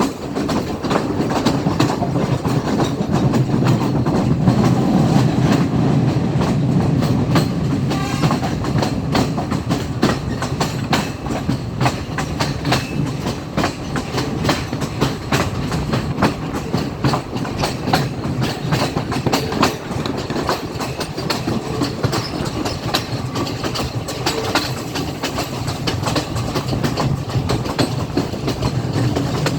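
Class S14 diesel multiple unit running along the line: a steady low rumble with rapid clicking of the wheels over the rail joints, the rumble heavier in the first several seconds.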